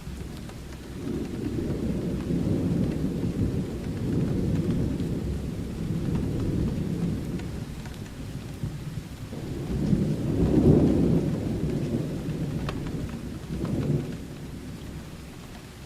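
Thunderstorm sound effect: long low rumbles of thunder over steady rain. The thunder swells from about a second in, rolls for several seconds, peaks loudest about two-thirds of the way through, and ends with a shorter rumble near the end before only the rain remains.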